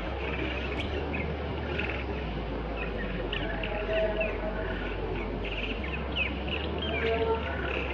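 Fairy martins (bottle swallows) twittering at their mud-nest colony: a stream of short, quick chirps over a steady background hiss.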